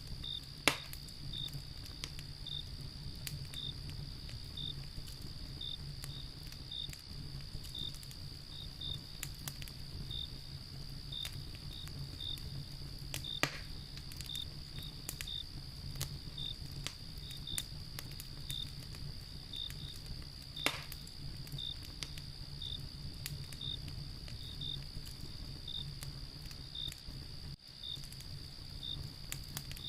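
Wood fire crackling with scattered small pops and three sharper snaps. Behind it run a steady high insect trill and a regular chirp about once a second, as of crickets.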